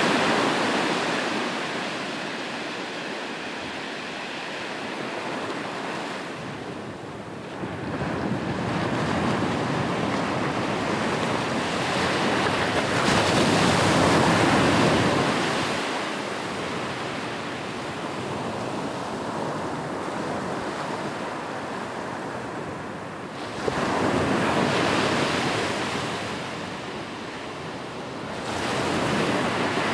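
Ocean waves breaking on a shore, the surf swelling and easing in slow surges every several seconds.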